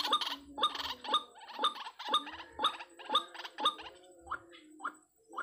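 White-breasted waterhen (ruak-ruak) calling: a run of repeated harsh calls, about two a second, growing fainter over the last second or so.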